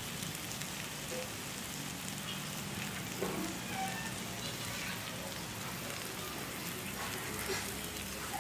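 Idli batter and onion-tomato masala sizzling steadily on a hot dosa griddle, with faint scattered crackles.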